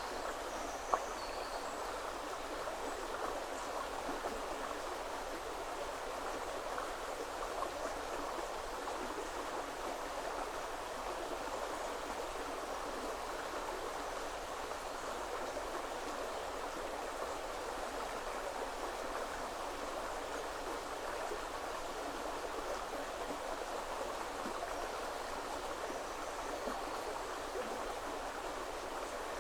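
River water flowing, a steady rushing that holds level throughout, with one sharp tick about a second in and a few faint high bird chirps near the start.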